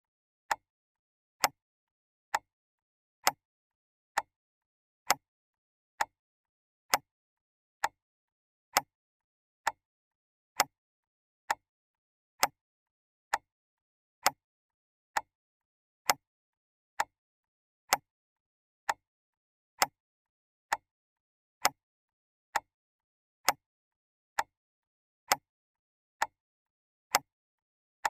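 Clock ticking steadily, a little under one tick a second, each tick a sharp click with near silence between.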